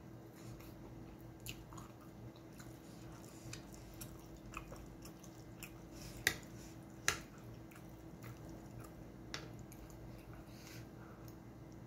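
Close-up mouth sounds of a person chewing a mouthful of spaghetti, with a few sharp clicks of a metal fork against the frying pan a little past the middle.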